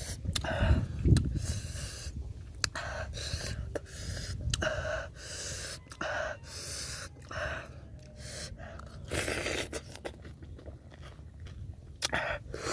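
Close eating sounds of a man chewing raw oysters with leafy greens and fried shallots: short wet chewing and smacking sounds in an uneven rhythm. Near the end he slurps an oyster off its shell.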